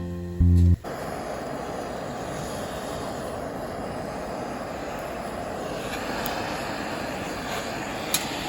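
A music track cuts off about a second in, giving way to a steady, even rushing background noise, with one short click near the end.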